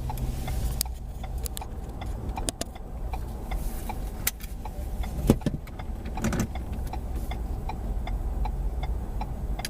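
Car running, heard from inside: a steady low engine and road rumble, with scattered clicks and one sharp knock about five seconds in. From about six seconds on there is a regular ticking, roughly three clicks a second.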